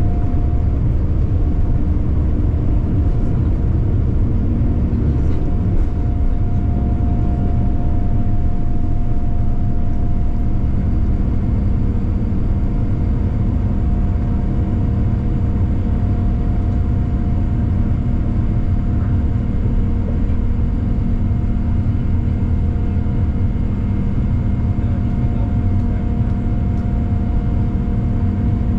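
Boeing 787-9 engines heard inside the passenger cabin: a loud, steady rumble with several steady whining tones held over it.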